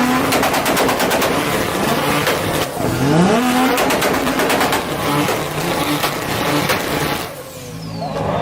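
Tuned sports car exhaust cracking off rapid pops and backfires in quick succession while the engine is revved, with a rising rev about three seconds in. The popping dies away briefly near the end.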